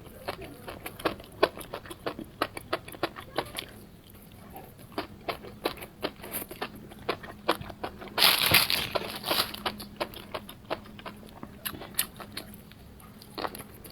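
Close-up chewing and biting into fried skewers: many short, crisp crunching clicks at an uneven pace. A louder, longer burst of crunching or rustling comes about eight seconds in.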